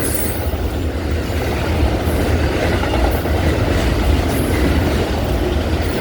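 Amtrak Auto Train's cars rolling past: a steady, loud rumble of steel wheels on rail, with a few clacks over rail joints.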